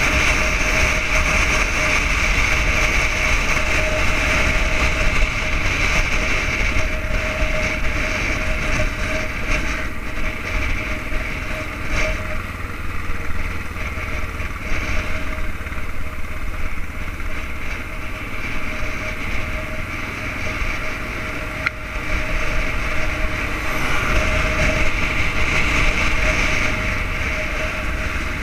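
1989 Yamaha XTZ 600 Ténéré's single-cylinder four-stroke engine running while riding, over a steady rush of wind and road noise. The sound eases through the middle and picks up again about three-quarters of the way through.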